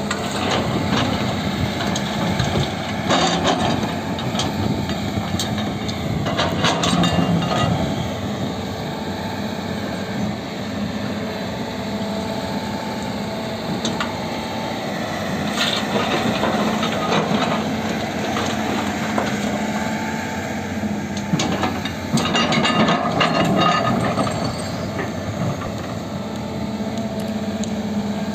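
Diesel engine of a JCB backhoe loader running steadily, with several bursts of crunching and rattling as soil is loaded into a dumper.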